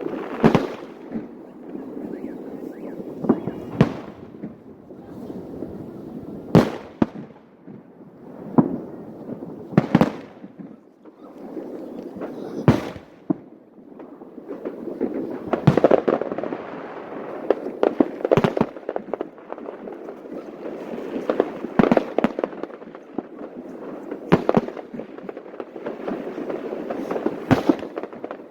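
Aerial fireworks bursting: sharp booms every second or two, each with a rolling echo, over a continuous crackle of smaller shells, growing denser about halfway through.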